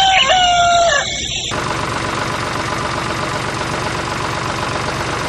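A rooster crowing, cut off about a second and a half in, followed by a steady, even whirring noise like a small motor running.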